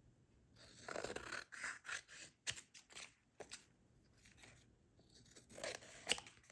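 Scissors snipping through printed paper, trimming the excess from the edge of a card in a run of short, irregular cuts with the paper rustling.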